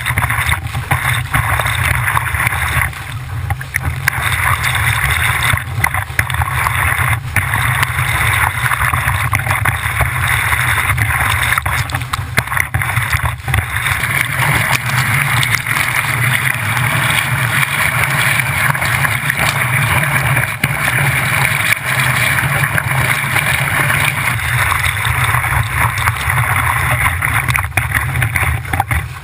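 Wind buffeting a GoPro's microphone while water rushes and splashes along the hull of a Laser sailing dinghy under sail. A low rumble and a steady hiss run throughout, with scattered short knocks.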